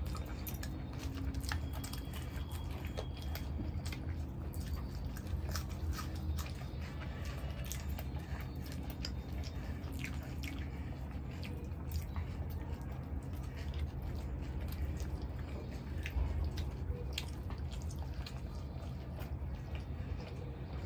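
Close-up eating sounds of two people chewing naan and masala chaap curry, with many small wet mouth clicks, over a steady low hum.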